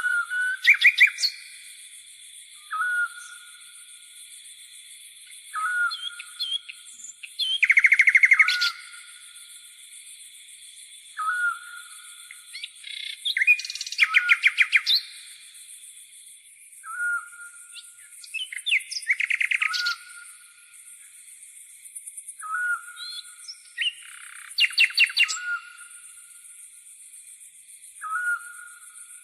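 Birds calling and singing: a short whistled note repeats every few seconds, and louder rapid trilled phrases come about every five or six seconds. Under them runs a steady high-pitched insect buzz, like grasshoppers chirring.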